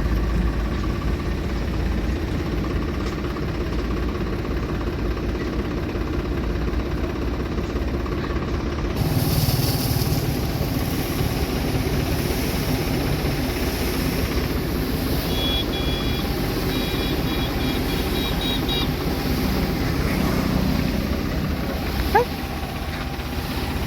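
Tractor engine running steadily, driving a spray pump. The sound changes abruptly about nine seconds in, a short run of high pulsing beeps comes a few seconds later, and a brief sharp sound is heard near the end.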